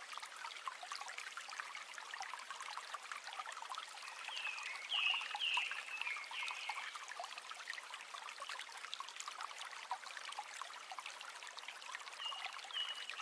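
River water running and trickling over stones, a steady splashing rush with many small drips and splashes. A short run of high, falling call notes cuts through about five to seven seconds in, and again near the end.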